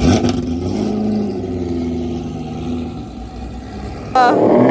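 A car engine running, its pitch easing slowly downward as it slows or drives off. About four seconds in, the sound cuts sharply to something louder whose pitch shifts quickly.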